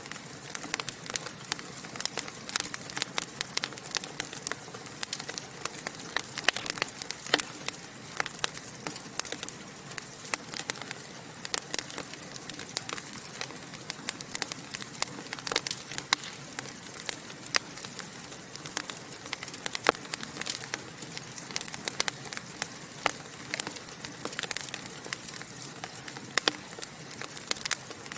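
Fire in a fireplace crackling and popping: many irregular sharp snaps over a steady soft hiss.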